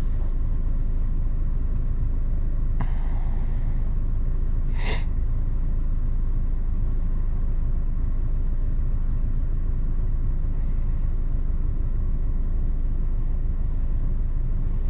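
2006 Honda Accord engine idling steadily, a constant low rumble. A faint click comes about three seconds in and a short hiss just before five seconds.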